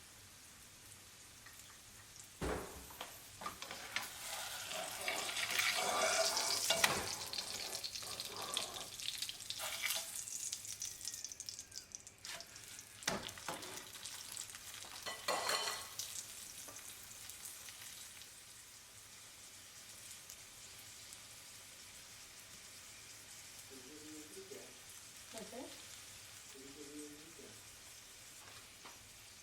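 Aloo paratha frying on a hot pan, sizzling in louder spells a few seconds in and again near the middle, then quieter. There are a couple of sharp knocks, likely a spatula or pan.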